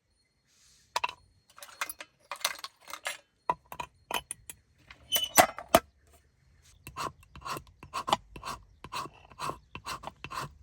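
Small hard objects being handled, a series of clicks, clinks and light knocks, settling into a fairly even run of strokes about two a second in the second half.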